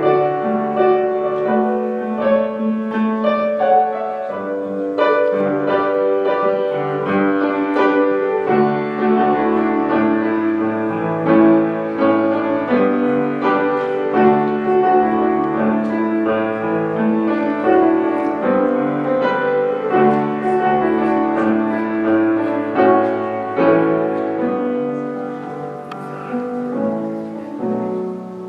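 Solo piano playing a hymn arrangement, with sustained chords and a flowing melody, continuous throughout; it gets a little softer near the end.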